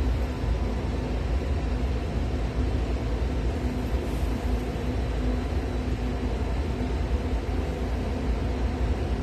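Steady machine noise of a precision air-conditioning cabinet running, a low rumble of fans and moving air with a faint steady hum.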